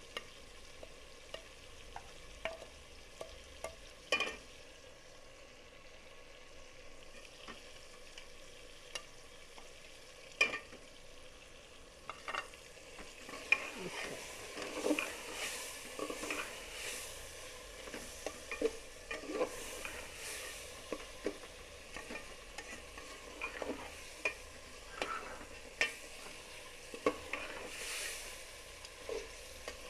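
A spoon stirring and scraping in a pot of frying chicken and tomato masala, with sharp knocks of the spoon against the pot over a low steady sizzle. The stirring grows busier about halfway through.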